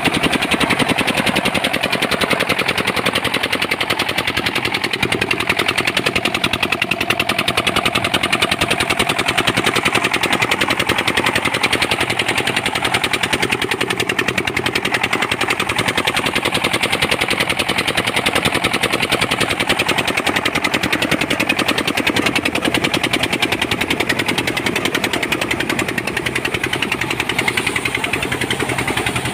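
Engine-driven rice power thresher running steadily, its motor firing in a rapid even chug.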